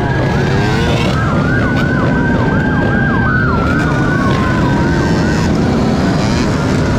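Police siren yelping in fast, repeated sweeping wails over a steady loud engine-and-road rumble; the siren stops about five and a half seconds in.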